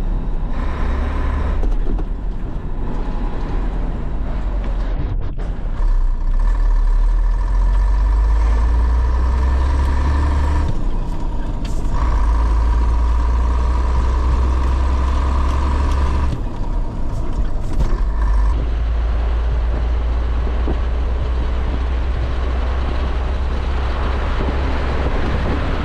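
1989 Scania 93M 280 lorry's 9-litre straight-six diesel running under way on the road, a steady loud rumble whose note drops back briefly about 11 and 17 seconds in.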